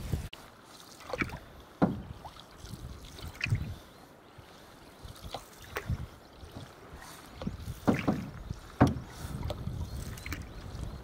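Canoe paddles dipping and pulling through choppy lake water, irregular splashes every second or two with a few sharper knocks, over wind rumbling on the microphone.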